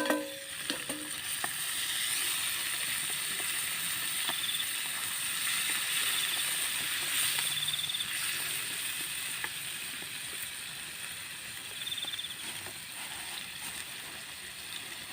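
Rice-field snails and chopped banana stem sizzling as they sauté in a hot pan, a steady frying hiss.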